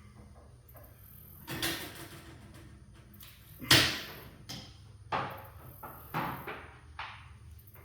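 A series of knocks and clanks from garage door hardware being worked on during roller replacement, with the loudest sharp knock about four seconds in.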